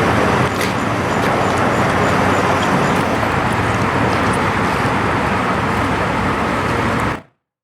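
Steady rumble of vehicle engines and street traffic noise, with a low engine hum, cutting off abruptly about seven seconds in.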